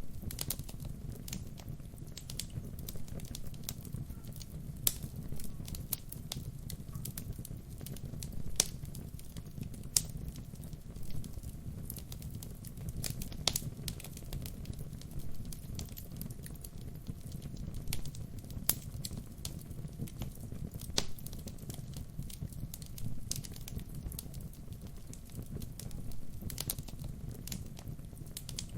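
Wood fire burning, with a steady low rumble under irregular sharp crackles and pops from the burning wood, some much louder than others.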